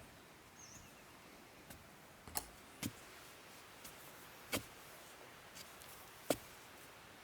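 A few sharp knocks at irregular intervals, the loudest near the end, over a faint steady hiss.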